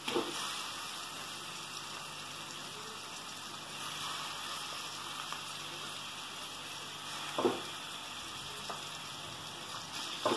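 Onions, green chillies and freshly added chopped tomatoes frying in oil in a steel kadai, with a steady sizzle. A steel spatula knocks against the pan once about seven seconds in and again near the end.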